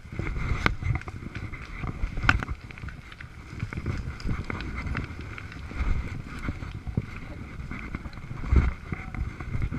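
Irregular footsteps and scuffing on a steep, brushy slope, with a few sharper knocks and low wind rumble on the microphone.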